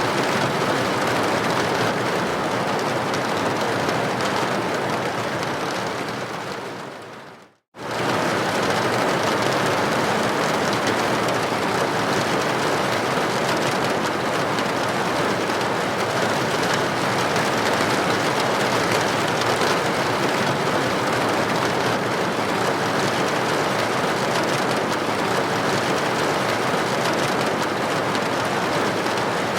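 Steady hiss of rain hitting a building window. About seven seconds in it fades out to silence for a moment, then resumes at full level.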